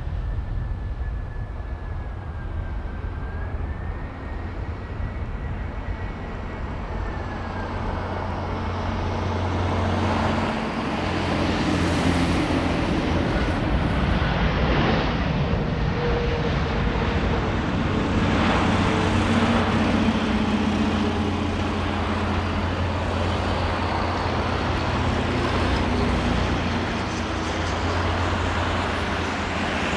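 Jet airliner engines running. A thin high whine falls in pitch over the first several seconds, then a broad rumble swells about ten seconds in and holds.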